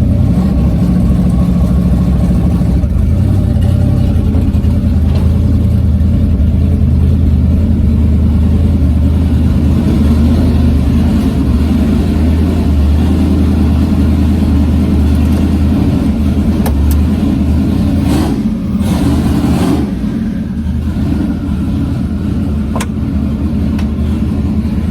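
Twin-turbo Chevy S10's engine running loud and steady, with a brief rushing noise about eighteen seconds in.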